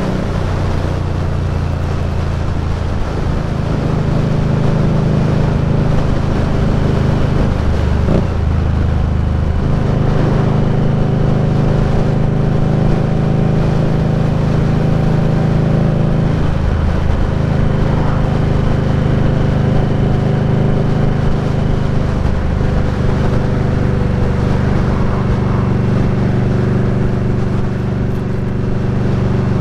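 Indian Scout Bobber's V-twin engine running under way, its note steady for long stretches and briefly breaking and changing pitch three or four times.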